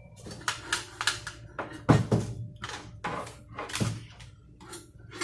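Irregular clunks and rattles from inside the base of a Burco electric water boiler as it is moved, about ten knocks with a couple of heavier thuds: a sign that some part inside may have come loose.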